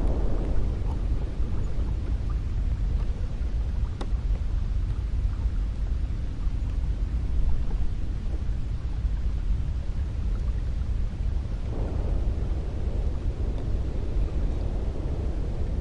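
Wind blowing steadily with a deep rumble, swelling in gusts near the start and again about twelve seconds in.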